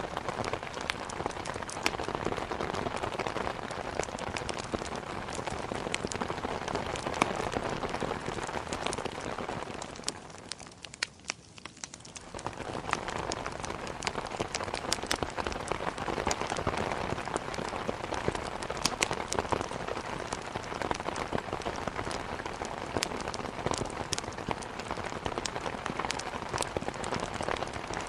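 Steady heavy rain with many small sharp ticks scattered through it. It dips down briefly about ten seconds in, then comes back to the same steady level.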